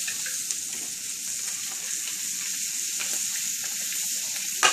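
Shrimp frying in butter in an electric wok: a steady sizzling hiss, with a sharp click near the end.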